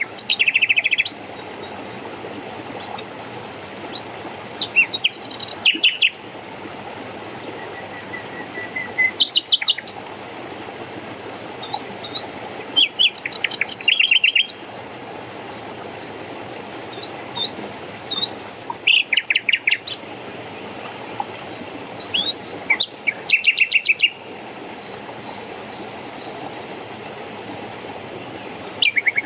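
Songbirds singing short, quick phrases of repeated chirps every few seconds over the steady rush of running water.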